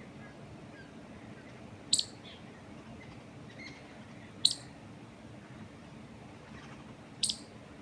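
A songbird giving three short, sharp, high chirps a couple of seconds apart, over steady low background noise.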